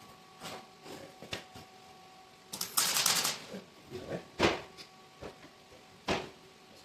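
Electric welder tack-welding a new piece of steel into a truck frame: several short crackling bursts, the longest about three seconds in, over the welder's faint steady hum.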